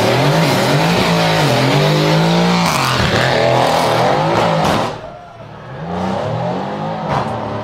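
Mercedes car engine and loud exhaust revving hard several times, the pitch climbing and falling repeatedly. About five seconds in it drops off, followed by a couple of softer revs.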